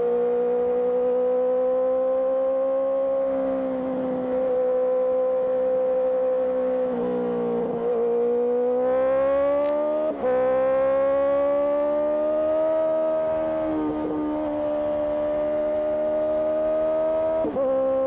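Honda CBR650R inline-four engine through an IXIL IXRACE aftermarket exhaust, running under way with a steady note that then rises in pitch under acceleration. The note breaks off briefly at gear changes about ten seconds in and near the end, then picks up again.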